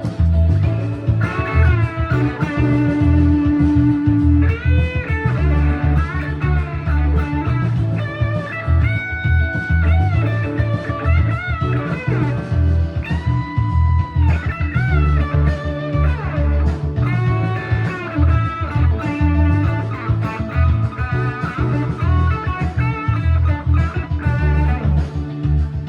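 Gibson Les Paul on its bridge pickup, played through a distortion pedal into a Quilter amp, soloing over a blues-rock backing track with bass and drums. The lead has held notes with string bends and vibrato, mixed with quicker phrases.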